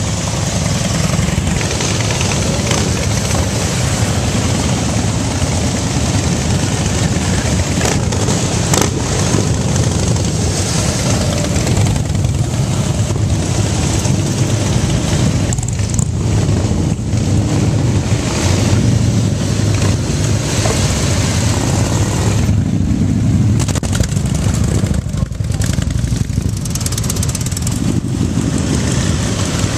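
Motorcycle engines running, loud and continuous.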